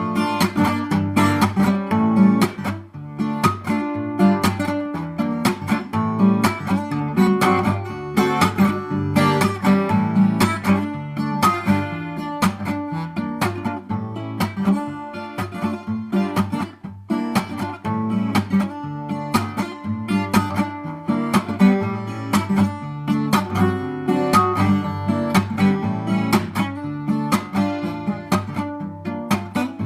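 A twelve-string acoustic guitar with a solid bubinga body, played unplugged with no processing: a continuous run of picked and strummed chords, with a brief pause about seventeen seconds in.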